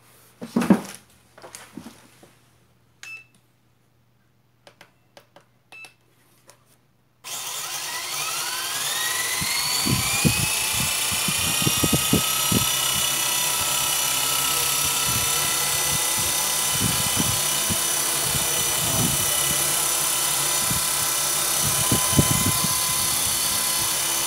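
WLtoys V912 RC helicopter's electric motor starting suddenly about seven seconds in, spooling up with a rising whine and then running at a steady high-pitched whine, with a few low knocks underneath. A few light clicks come before it starts.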